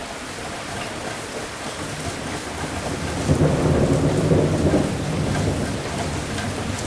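Steady rain with a roll of thunder that swells a little past halfway through, rumbles for about two seconds as the loudest sound, then fades back under the rain.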